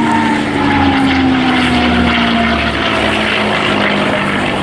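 P-51 Mustang's Merlin V12 engine running at display power as the fighter flies past, its note falling steadily in pitch as it passes.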